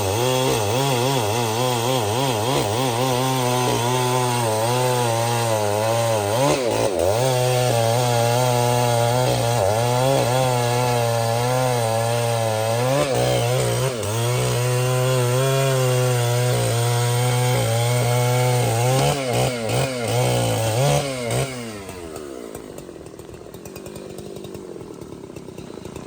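Large two-stroke chainsaw running at full throttle while cutting wood, its pitch wavering up and down under load. About 21 seconds in the revs fall away and it runs on much more quietly.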